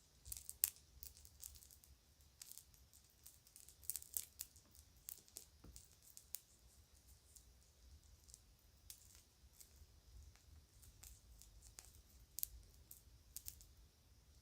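Kids' jewelry and a bag being handled: faint, irregular high-pitched clicks and crinkles, with a few sharper clicks about half a second in and around four seconds.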